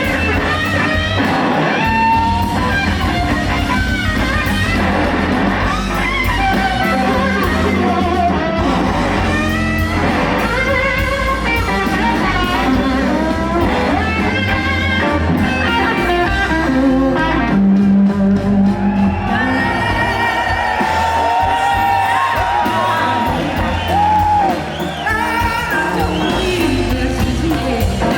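Live blues band performance: electric guitar playing wavering, bending lines over a steady low backing, with singing.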